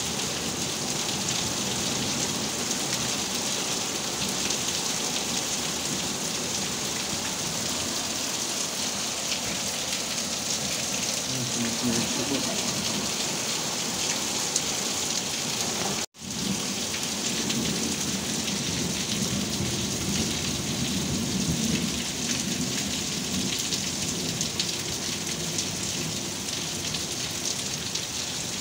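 Heavy rain pouring steadily in a thunderstorm, with low rolls of thunder under it near the middle and again later. The sound cuts out for an instant a little past halfway.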